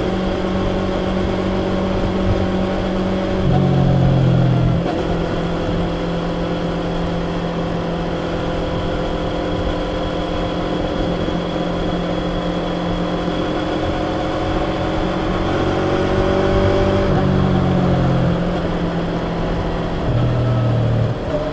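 Yamaha YZF-R25's 250 cc parallel-twin engine through its stock exhaust, running at a steady note, with brief louder changes in engine pitch about 4 seconds in, around 17 seconds, and again near the end.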